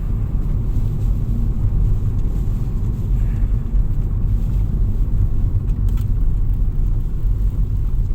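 Four-wheel drive car driving along, a steady low rumble of engine and road noise heard from inside the cabin.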